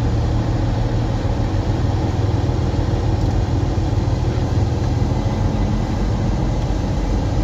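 Semi truck's diesel engine running steadily, a constant low hum.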